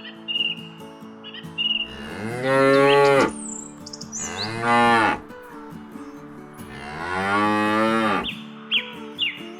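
Cows mooing: three long moos, each rising and then falling in pitch, with a few short bird chirps around them.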